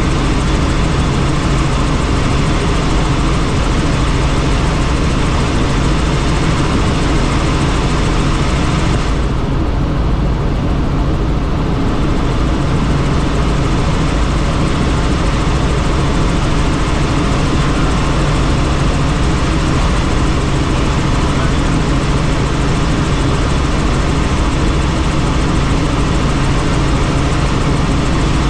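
Helicopter in flight heard from on board: a steady engine and rotor drone with a strong hiss over it. The high hiss drops away for a couple of seconds about ten seconds in, then returns.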